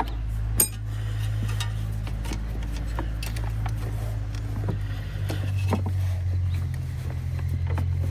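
Scattered light clicks and taps of hand tools tightening the clamp on an ATV carburetor, over a steady low hum that shifts slightly about six seconds in.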